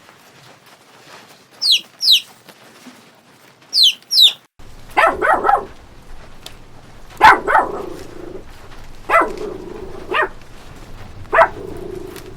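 Two pairs of short, high chirps falling in pitch. Then a dog barking: a quick run of four or five barks, followed by single barks every second or two.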